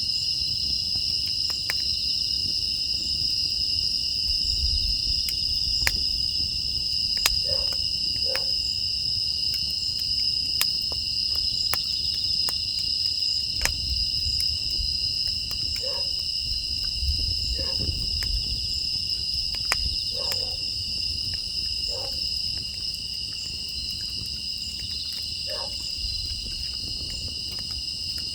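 Steady chorus of grass insects (crickets) trilling in two high, unchanging pitches, with scattered sharp crackles and pops from a burning wood fire. A few short, lower calls come every few seconds.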